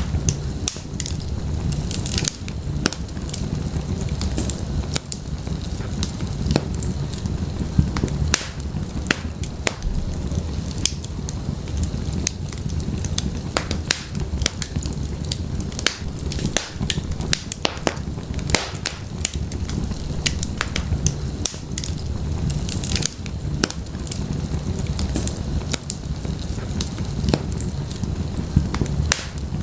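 Wood fire in an open fireplace burning steadily: a low rumble of flames with frequent irregular sharp crackles and pops from the burning firewood.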